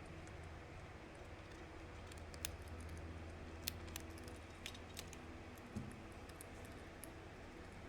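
A handful of short, sharp light clicks and taps, about seven spread over a few seconds, over a low steady hum.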